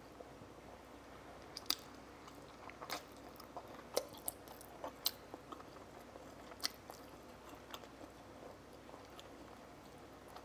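A person eating close to the microphone: quiet chewing with scattered sharp clicks and smacks, a second or so apart at irregular intervals.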